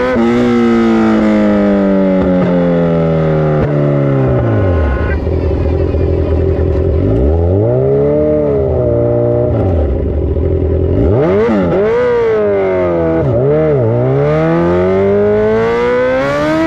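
Dirt bike engine revving: the revs fall away slowly over the first several seconds, then are blipped up and down a few times and climb again near the end.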